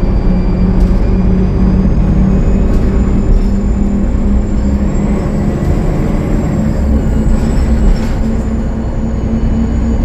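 Cummins ISL9 diesel engine of a Gillig Low Floor transit bus running steadily under way, with a low drone. A thin high turbo whistle rises through the middle and then falls away, from a turbo that has a leak. A few brief rattles come through.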